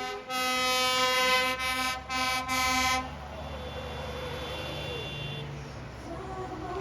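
Vehicle horn sounding, one long blast then a few short toots, followed by the low rumble of engines running, with another horn starting near the end.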